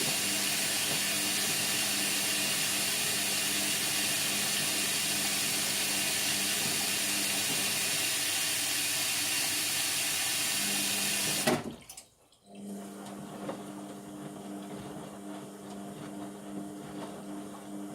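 Indesit washing machine filling with water through its inlet valve, a steady hiss of water rushing in. About two-thirds of the way through the fill cuts off with a click, leaving a quieter steady hum.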